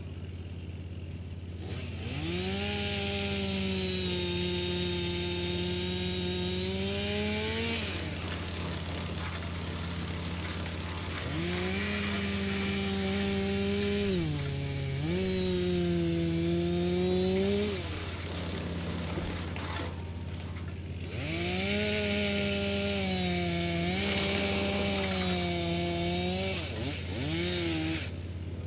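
Wood chipper running, with three spells of wood being fed through it. Each spell brings a loud pitched drone with a harsh chipping hiss, and the pitch sags and recovers under the load. Between the spells there is a steady low hum.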